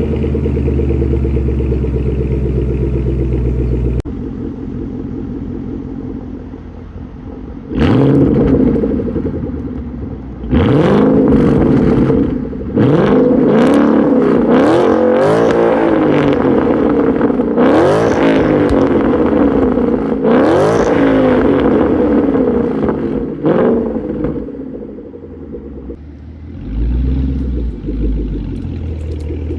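2014 Ford Mustang GT's 5.0 L V8 through a Borla ATAK cat-back exhaust, idling, with the idle dropping lower about four seconds in. From about eight seconds in it is revved repeatedly, a string of quick blips that climb and fall back, then settles to idle with one more short rev near the end.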